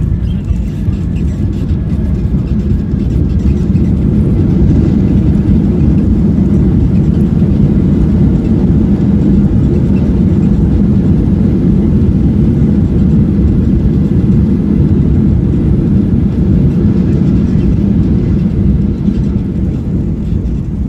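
Airliner cabin noise during the landing rollout: a loud low rumble that builds about four seconds in, holds, and eases off near the end.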